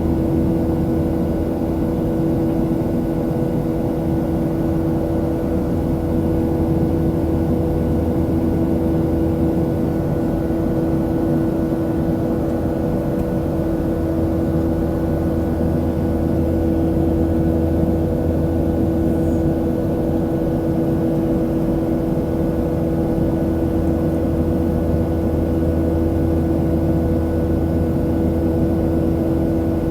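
Boeing 737-700 cabin noise in flight: a steady drone from the CFM56-7B turbofan engines and airflow, with a constant low rumble and several steady hum tones.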